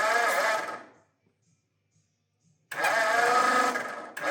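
Starter motor cranking a freshly installed Ford flathead V8 in short bursts, three in all: one ends about a second in, one runs from near the middle to just before the end, and another starts right at the end. The engine turns over without firing.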